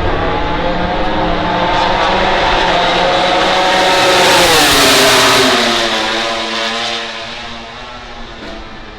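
MotoGP four-cylinder prototype race bike at speed, passing by. Its engine note climbs slightly on the approach, is loudest about halfway through, drops sharply in pitch as the bike goes past, then fades away.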